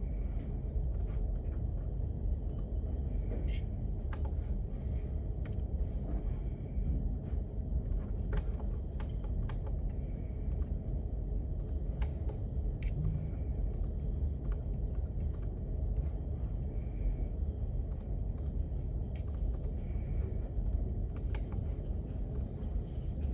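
Irregular computer keyboard typing clicks over a steady low background rumble.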